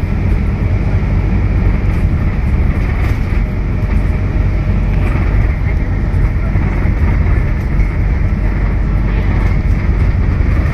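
Cabin noise aboard a Scania K320UB hybrid city bus on the move: a steady low rumble from the drivetrain and road, with faint light rattles.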